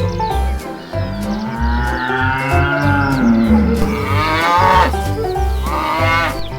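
A cow mooing: one long drawn-out moo starting about a second in, then a shorter call near the end, over background music with a steady beat.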